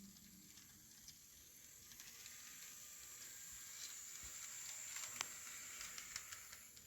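Faint whir and wheel hiss of a Kato N scale ES44AC model locomotive running along the track, growing louder to a peak about five seconds in and then fading, with a few light clicks.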